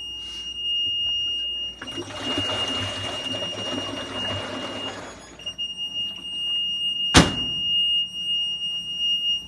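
Maytag Neptune front-loader's control panel giving a continuous high-pitched beep that breaks off briefly about five seconds in and then resumes. It is beeping by itself, the sign the owner takes for a bad control panel. A rushing noise fills the middle, and a single sharp click about seven seconds in is the loudest sound.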